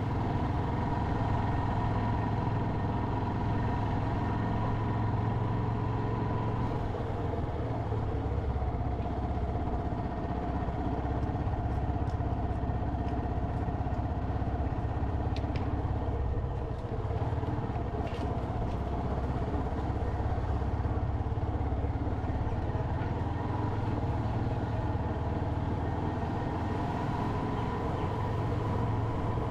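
Motorcycle engine running steadily while riding, its pitch holding fairly even with no big revs.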